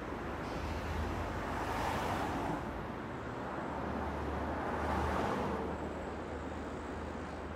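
Electric trains rolling through a station: a Stadler FLIRT electric multiple unit approaching and an electric freight locomotive with tank wagons, under a steady low hum. Wheel-on-rail noise swells up twice, about two and five seconds in.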